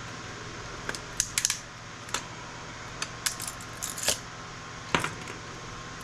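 Sharp metallic clicks and clinks, eight or nine spread irregularly over a few seconds, as steel parts and components are worked off scrap circuit boards by hand, over a steady low hum.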